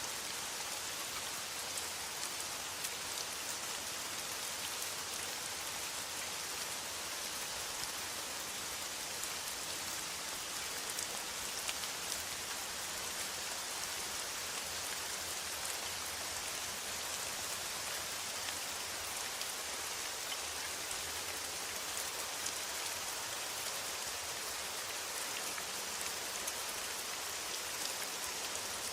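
Steady rain falling on a metal roof: an even, dense hiss with many small, sharper drop ticks scattered through it.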